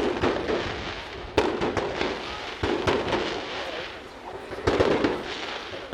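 Fireworks display: an irregular string of sharp bangs and crackling bursts, with the loudest clusters about a second and a half in and near the end.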